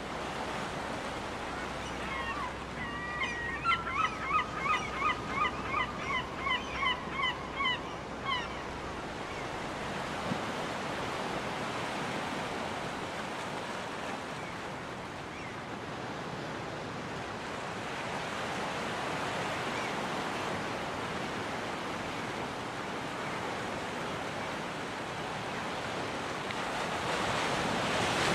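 Ocean surf washing steadily onto a beach. About two seconds in, a gull gives a run of a dozen or so quick repeated calls, each dipping slightly in pitch, lasting about six seconds. The surf grows louder near the end.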